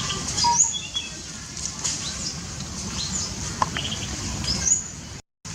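Birds chirping: many short, high chirps and brief whistles over a steady low rumble. The sound cuts out for a moment near the end.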